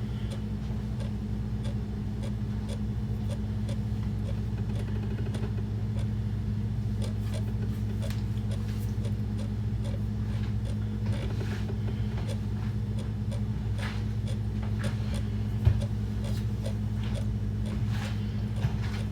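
A steady low machine hum, with faint scattered clicks and taps over it and one sharper knock about three-quarters of the way through.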